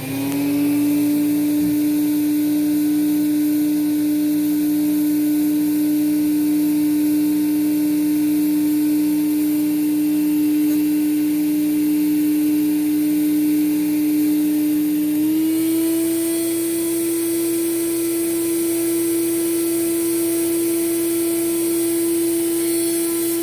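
Hoover Celebrity two-speed vacuum cleaner running on low speed: a loud, steady motor hum with one strong tone, which steps up slightly in pitch about fifteen seconds in.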